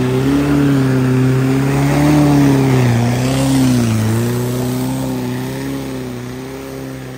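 Volkswagen Beetle's air-cooled flat-four engine pulling hard under load up a steep muddy hill. Its revs sag briefly about three to four seconds in, then hold, and the sound fades as the car climbs away.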